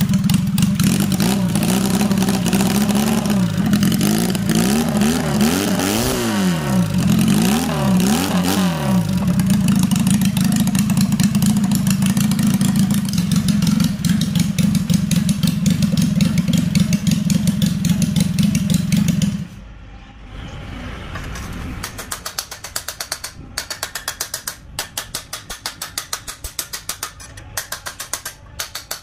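Home-built two-cylinder 250cc engine, made from a Honda Wave engine, running steadily and revved up and down a few times, then cut off about two-thirds of the way in. After it stops, light regular clicking about twice a second.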